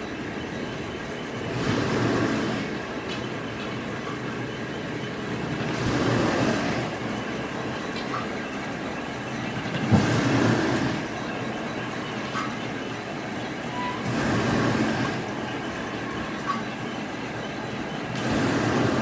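Factory machinery running steadily, its noise swelling and easing about every four seconds in a regular cycle, with one sharp knock about halfway through.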